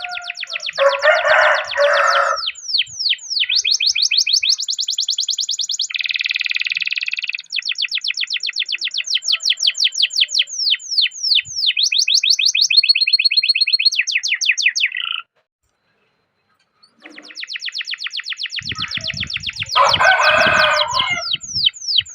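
A domestic canary singing long rolling trills: fast runs of repeated chirps and quick downward sweeps, some trills held on one pitch. A lower, rougher burst comes about a second in and again near the end, and the song breaks off briefly a little past the middle.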